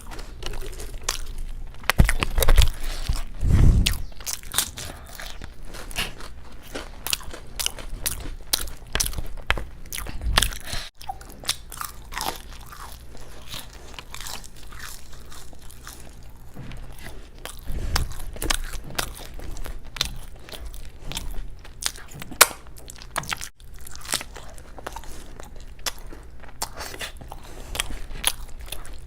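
Close-miked eating sounds: steady biting and chewing of crisp food, a dense run of crunches, with the loudest bites about two to four seconds in.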